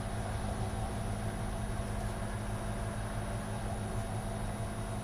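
Steady low hum with an even hiss and a faint high whine, unchanging throughout.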